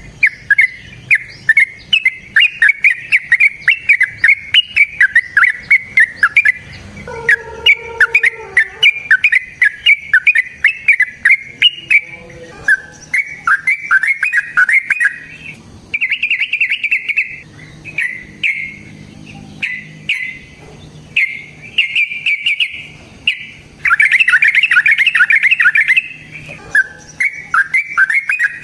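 A cage bird calling in long, loud strings of rapid chirps, several notes a second, with short pauses between runs and a denser, louder run about two-thirds of the way through.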